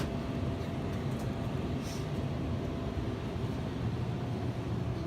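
A steady low rumble of background noise with a faint steady hum, and a faint tick or two about a second and two seconds in.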